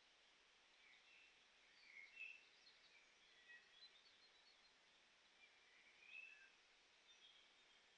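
Faint birdsong: scattered short chirps and whistles, a little louder about two seconds in and again around six seconds.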